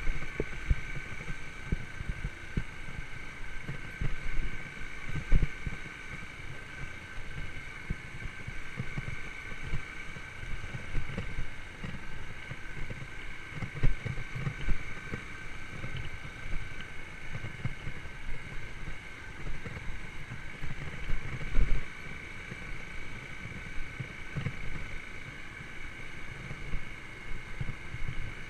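Yamaha YBR125's single-cylinder four-stroke engine running steadily while riding, with wind rumbling on the microphone and a few louder low thumps.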